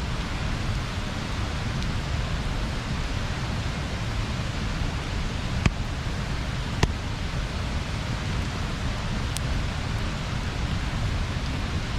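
Steady rushing of river water pouring over a small weir, with two sharp snaps about halfway through.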